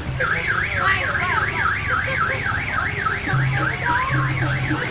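Electronic siren warbling fast, its pitch sweeping up and down about four times a second.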